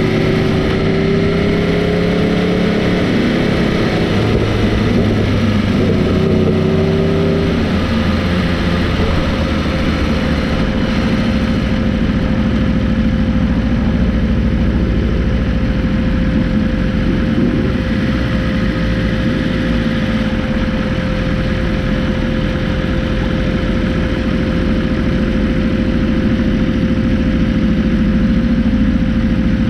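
Motorcycle engine running continuously, its pitch shifting up and down in the first several seconds and then holding steady.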